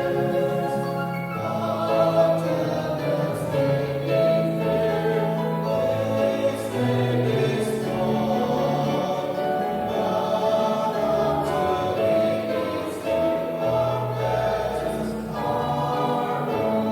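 A choir singing a hymn, several voice parts holding long notes together.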